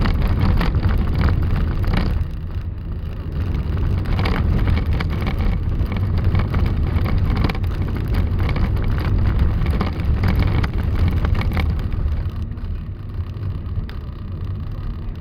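Loud, steady low rumble of a snowstorm, wind and road traffic together, with crackling gusts. It dips slightly about two seconds in and eases off near the end.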